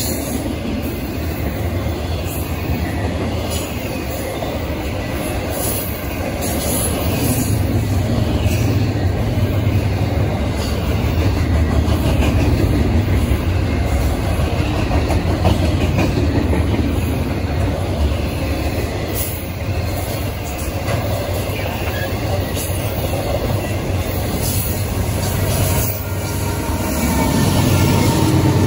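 Double-stack intermodal freight cars rolling past with a steady rumble of steel wheels on the rails. Near the end the sound grows louder and a low diesel engine note comes in as a mid-train distributed-power Norfolk Southern locomotive passes.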